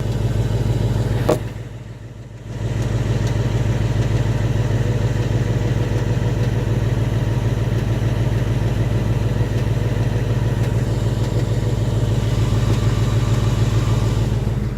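Ford Mustang engine running steadily, with a sharp click just over a second in and a brief drop in level soon after.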